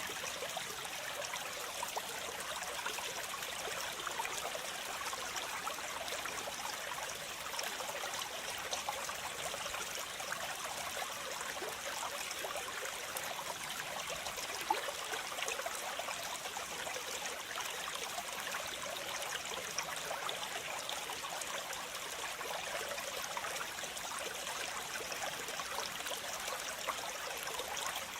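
Waterfall: water falling and splashing in a steady, even rush, mostly hiss and splash with little deep rumble.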